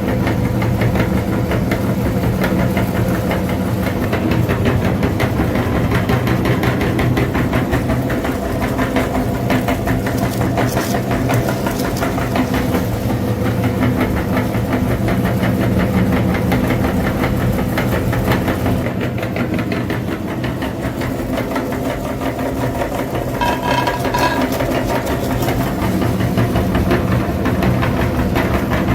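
Mini tractor's engine running steadily with a rapid knocking beat. A brief higher-pitched tone is heard about 24 seconds in.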